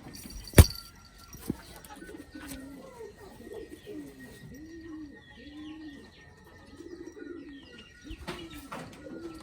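Domestic pigeons cooing over and over, a string of low rising-and-falling coos. A sharp, loud knock about half a second in and a smaller click a second later.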